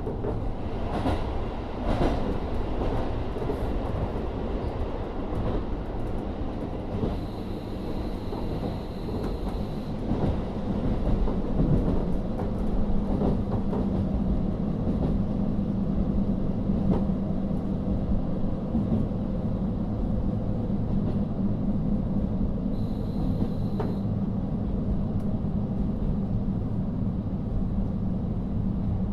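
Cabin running sound of a KiHa 40 diesel railcar under way: its N-DMF13HZB diesel engine drones under steady rolling noise, with wheels clicking over rail joints in the first few seconds. About twelve seconds in, the engine settles into a steady hum.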